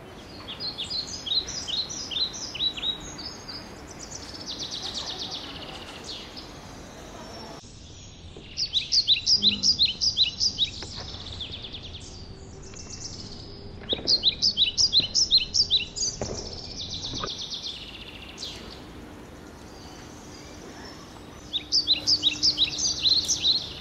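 A bird singing four phrases of quick, high, downward-sweeping chirps, several seconds apart, over a faint steady background hiss.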